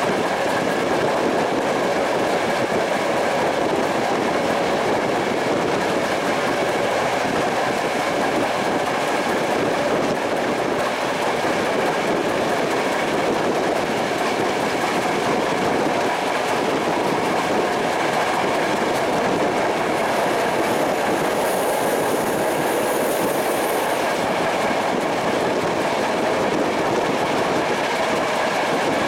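A moving passenger train heard from an open coach window: the steady running noise of wheels on the rails and rushing air, with a faint high whine for a few seconds past the middle.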